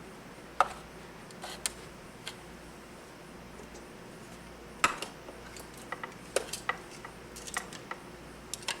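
Scattered sharp clicks and light knocks of hard plastic being handled: an old cordless phone handset and base being picked up and disconnected. The clicks come singly, about a dozen in all, and bunch more closely in the second half.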